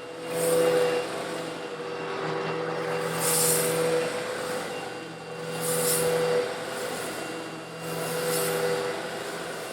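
Eureka vacuum cleaner running steadily while sucking up coarse stone granules. Swells of gritty hiss come about every two and a half seconds as the granules rattle up through the nozzle and hose.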